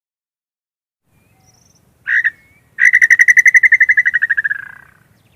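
Male inhambu (tinamou) calling: one short whistled note, then after a brief pause a fast run of rapid notes that drops slightly in pitch and fades away.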